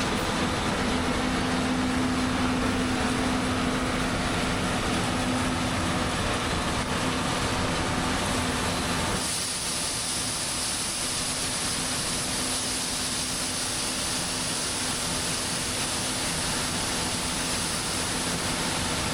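Heavy farm machinery running steadily, a constant engine hum over a wide noise. About halfway through the sound shifts: the low hum drops away and a higher hiss comes up.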